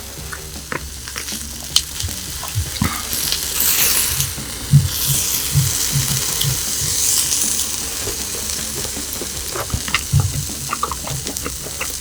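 Hanwoo beef sizzling on a hot grill: a steady hiss with scattered sharp pops and clicks. A run of soft low thuds comes about halfway through.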